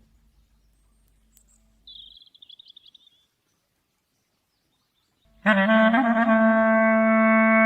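A bird gives a short, quick high trill, then after a pause a clarinet comes in about five seconds in with a brief flourish and settles on one loud, long held note.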